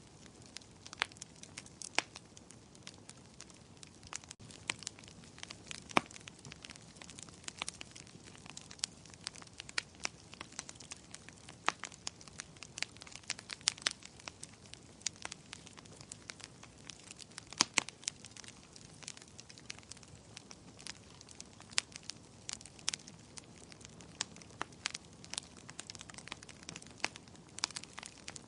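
Wood fire in a fireplace crackling and popping: frequent irregular sharp snaps over a low steady hiss.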